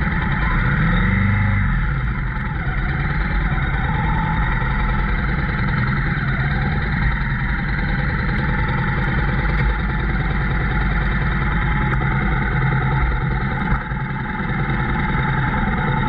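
Motorcycle engine running steadily while riding, under heavy wind noise on the camera microphone, with a brief change in engine pitch about a second in.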